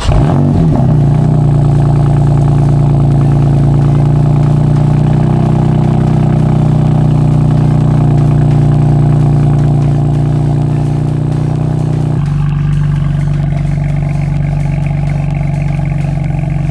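BMW M4 Convertible's twin-turbo 3.0-litre inline-six on a cold start. It has just fired and runs at a steady, high cold-start idle; about twelve seconds in, the idle steps down to a lower, quieter speed.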